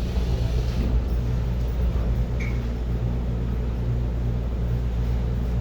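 Steady low rumble and hum of an EMU800 electric multiple unit train running, heard inside the carriage.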